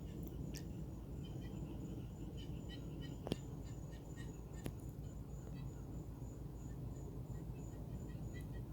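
Outdoor waterside ambience: a steady high-pitched insect trill and scattered short chirps over a low rumble, with two sharp clicks about a second apart near the middle.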